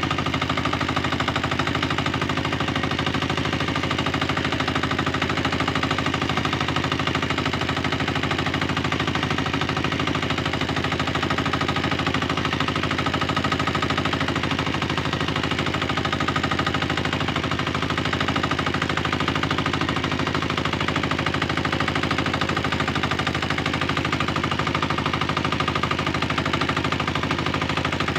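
Tractor engine running steadily under work, a fast, even string of firing pulses with no change in speed.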